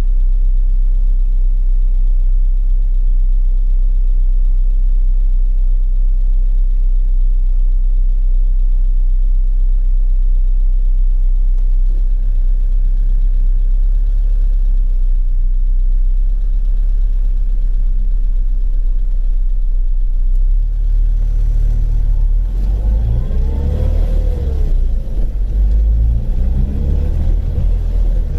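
Rover Mini running, a steady low engine and road rumble; in the last several seconds the engine note rises and falls as the revs change.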